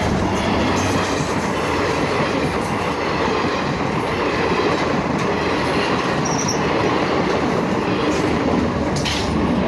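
Passenger train coaches passing close at speed: a loud, steady rush and rumble of steel wheels running on the rails.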